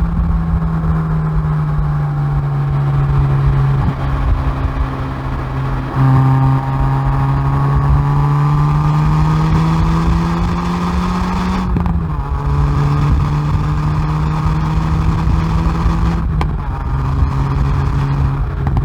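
Hyundai i30N Performance's turbocharged 2.0-litre four-cylinder engine heard through its exhaust at the rear bumper, pulling hard on track. Its pitch climbs slowly under load, with a few short breaks and steps in pitch from gear changes and throttle lifts, the clearest about two-thirds of the way in.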